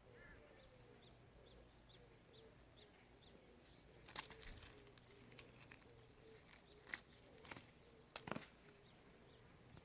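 Faint outdoor ambience: a run of soft, evenly repeated high chirps over the first few seconds, and a few brief sharp clicks or rustles, the loudest a quick pair about eight seconds in.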